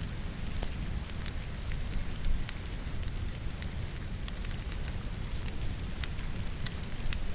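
Wood logs burning in a fireplace, crackling and popping with frequent sharp snaps, over a steady patter of rain.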